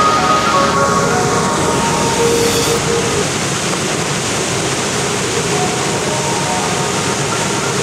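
Steady rushing roar of a waterfall and mountain stream, with faint background music fading out about a second in and returning near the end.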